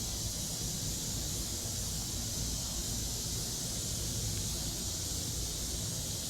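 Cicadas calling in a steady, high-pitched chorus, with a low rumble underneath.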